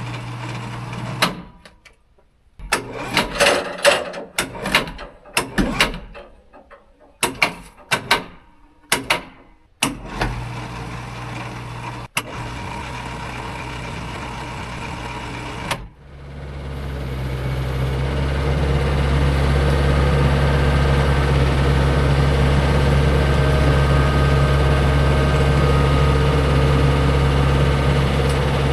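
A portable sawmill's engine idles, broken by a run of sharp knocks and clunks over several seconds. About sixteen seconds in, the engine is throttled up and holds a loud, steady run.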